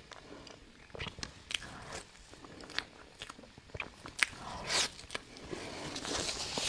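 Close-up chewing and biting of soft cake: scattered wet mouth clicks and smacks, with a longer noisy stretch in the last couple of seconds.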